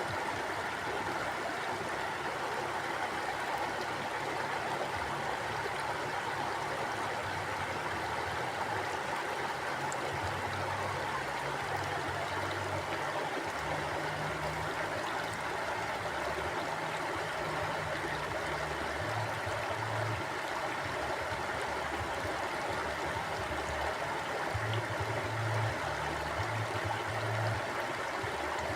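Mountain stream flowing: a steady rush of water with an uneven low rumble underneath.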